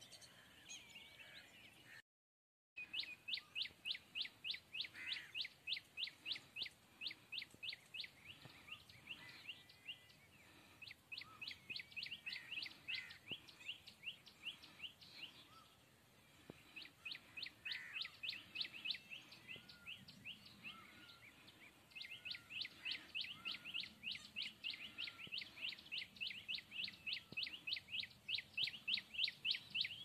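A bird calling: long runs of rapid, high repeated chirps, about five a second, broken by short pauses. The sound drops out completely for a moment about two seconds in.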